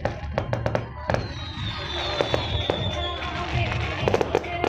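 Fireworks going off: a rapid string of sharp crackling bangs, then a high whistle that falls slightly in pitch for about two seconds, then more cracks near the end. Music plays underneath.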